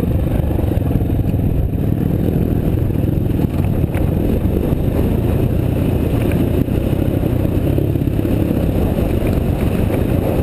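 Dirt bike engine running steadily as the bike rides along a dirt trail, with a dense low rumble.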